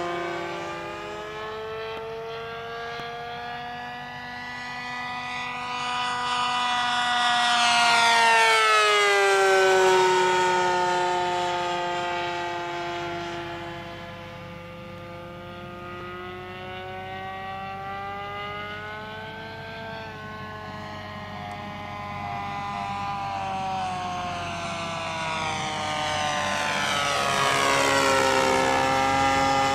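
Radio-controlled Seagull Tucano model plane's engine running at speed in flight. Its pitch rises and falls as it makes passes, loudest about eight seconds in, where the pitch drops sharply as it flies by, and again loud near the end.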